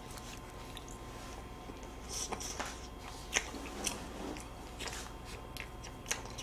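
Close-miked biting and chewing of a chocolate-cookie ice cream sandwich: soft mouth sounds with scattered small clicks and crunches.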